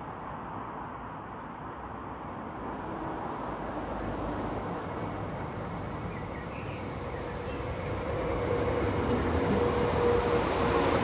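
NI Railways Class 4000 diesel multiple unit approaching, its rumble growing louder. A steady whine joins about halfway in.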